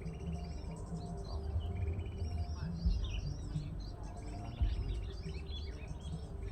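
Small birds calling continuously in quick, high chirps and short trills, over a low rumble. There are two dull knocks, about three seconds and four and a half seconds in.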